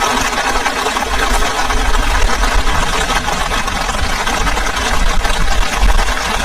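Heavy rain falling steadily in a storm, with gusts of wind rumbling across the microphone, stronger near the end.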